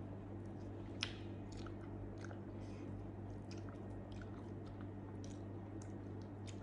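Close-miked chewing of soft grilled eggplant, with many small wet mouth clicks and one sharper click about a second in, over a steady low hum.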